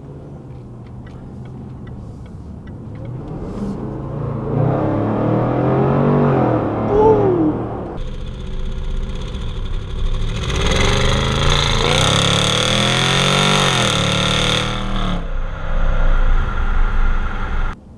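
Range Rover Sport SVR's supercharged 5-litre V8 under hard acceleration, revs climbing in two long pulls that each rise in pitch and then drop away. The sound cuts off abruptly near the end.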